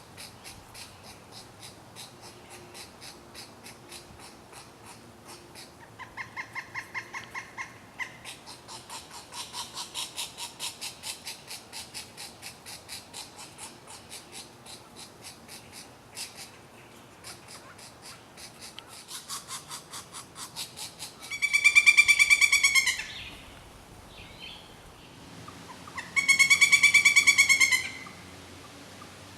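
Pileated woodpecker calling: two loud runs of rapid, evenly repeated notes, each about two seconds long, about three quarters of the way through and again near the end. Softer rapid calls go on through the first half.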